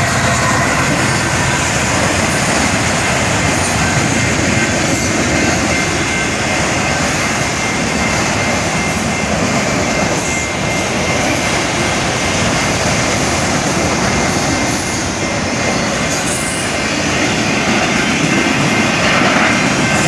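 Norfolk Southern freight train rolling past, its cars rumbling and clacking over the rails, with a thin steady wheel squeal in the second half.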